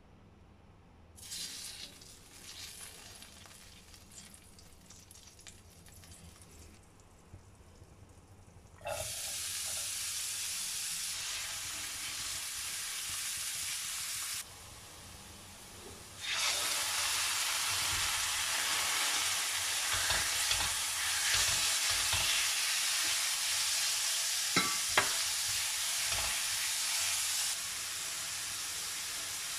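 Diced onion and chicken frying in a stainless steel pan, a steady sizzle stirred with a silicone spatula. The sizzle starts faint, jumps louder about nine seconds in and again around sixteen seconds, with two sharp taps of a utensil on the pan near the end.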